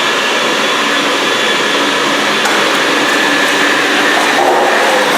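Water extraction vacuum running steadily and loudly, a constant machine noise with a steady whine, as standing water is sucked up from a flooded floor.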